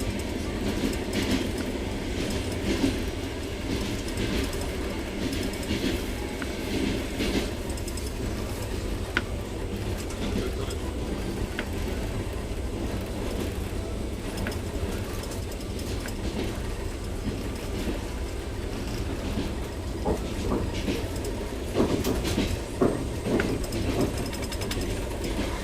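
Trans-Siberian Railway train running, heard from inside a carriage: a steady rumble of wheels on the track with scattered clicks, and a few louder knocks a little before the end.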